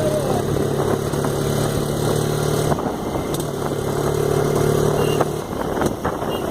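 Motorcycle engine running under way on an off-road ride, a steady drone that drops out briefly just under three seconds in and again a little after five seconds.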